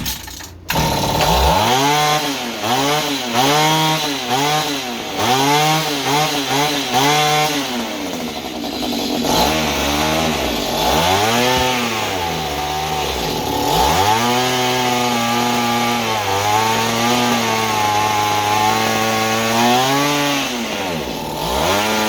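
Small engine of a Mantis mini tiller catching about a second in and running with its speed surging up and down over and over, never settling. It is hunting instead of idling, which the owner puts down to getting no idle out of it as he adjusts the carburettor.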